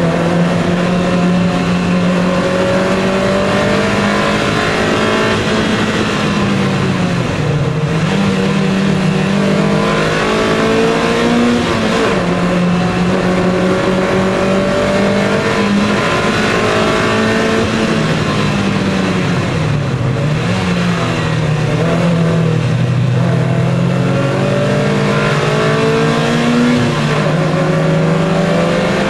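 MGF race car's four-cylinder engine heard from inside the cabin, running hard at racing speed, its pitch climbing slowly through the gears with a few short dips at gear changes. About two-thirds of the way through the pitch drops lower and then climbs back as the car slows and pulls away again.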